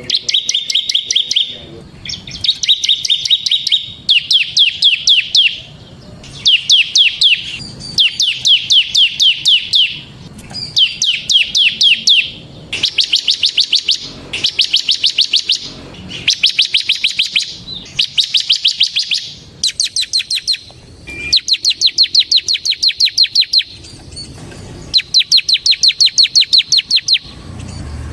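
Bar-winged prinia (ciblek) singing in its rapid 'ngebren' style. It repeats one- to two-second bursts of fast, evenly spaced high notes, about a dozen phrases separated by short pauses.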